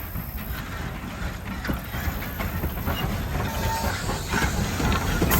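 Thomas the Tank Engine steam locomotive and its passenger cars approaching, a low rumble growing steadily louder with scattered clicks of wheels over the rail joints.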